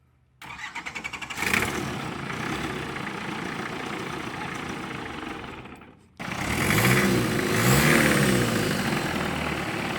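Longtail boat's diesel engine being cranked by the starter with rapid even pulses, catching about a second and a half in and running. Later it is revved up and back down twice.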